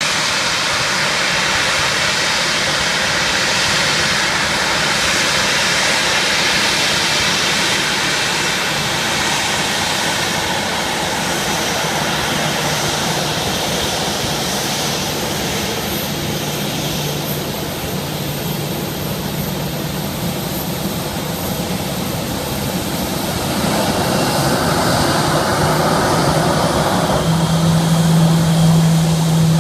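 Boeing 737-700 BBJ's twin CFM56-7 turbofan engines running at taxi power: a steady jet roar with a thin high whine over it, growing louder over the last few seconds.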